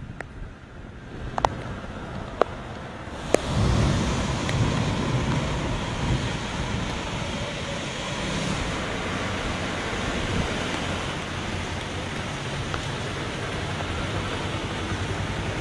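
Steady rain with wind, an even rushing that becomes louder about three and a half seconds in, after three sharp clicks.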